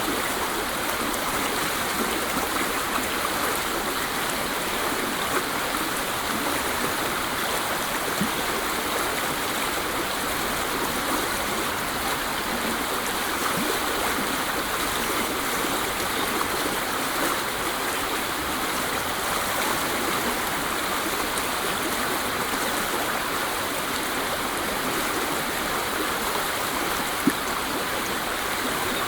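Waterfall: a steady, unbroken rush of falling water, an even hiss with no let-up.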